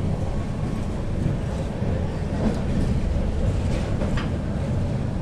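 Passenger express train running, a steady low rumble of wheels on the rails, with a few faint clicks near the end.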